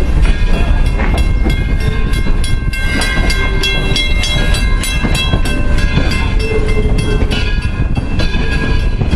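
Passenger cars of a steam-hauled excursion train rolling on the rails, heard from on board: a steady low rumble with irregular clicks and clanks from the wheels and couplings, and thin high ringing tones over it.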